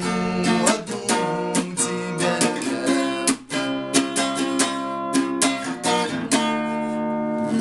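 Instrumental ending of a Russian pop song: guitar chords strummed in a quick, steady rhythm, with no singing.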